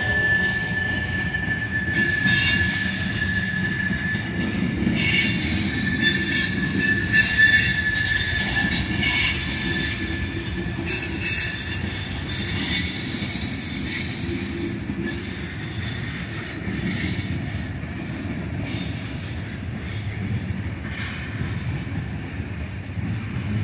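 Freight cars of a manifest train rolling past with a steady rumble and clatter of wheels on rail. A single high steady wheel squeal rings over it for the first ten seconds or so, then fades away.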